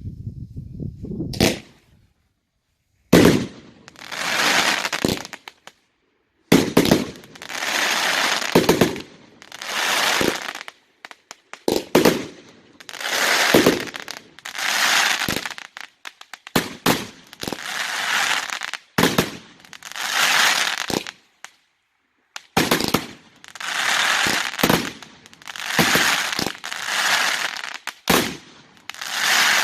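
Consumer fireworks going off in a rapid sequence: sharp bangs about every two seconds, each followed by a second or two of crackling.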